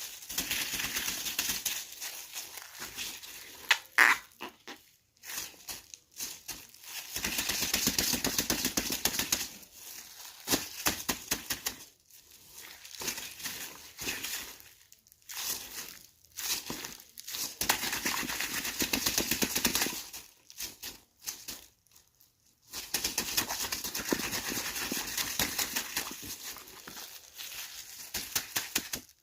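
A plastic bag filled with water being squeezed and kneaded by hand like slime: dense plastic crinkling and crackling in stretches of a few seconds with short pauses between.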